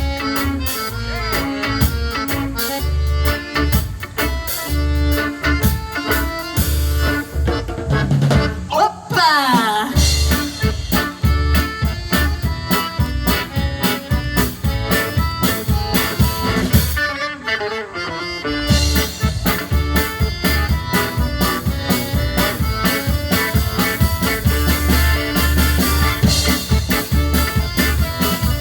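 A live band playing upbeat folk dance music: accordion over guitar, with a drum kit keeping a steady beat. The beat drops out briefly twice.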